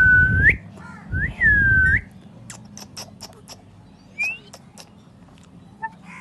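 Two long whistles, the first held steady and rising at its end, the second dipping and then climbing, followed by a run of sharp clicks and one short rising chirp.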